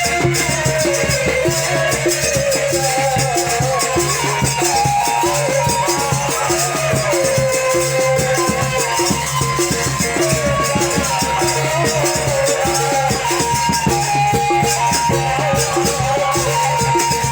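Lombok ale-ale band music: a wavering lead melody over fast, even rattling percussion and a steady low drone.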